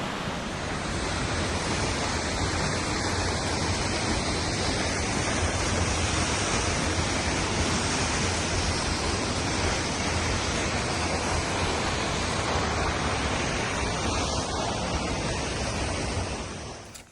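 Kinchkha Waterfall's falling water making a loud, steady rushing noise, cutting off abruptly near the end.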